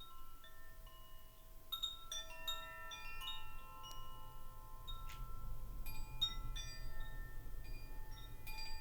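Wind chimes tinkling: light metallic strikes at irregular moments, each ringing on in several high pitches, bunched in loose clusters.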